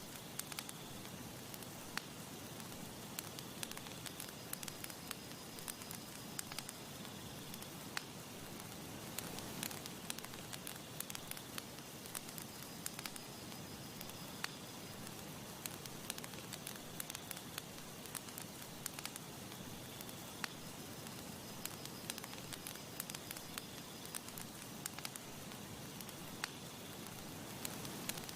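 Campfire burning with frequent irregular crackles and pops over a steady soft hiss.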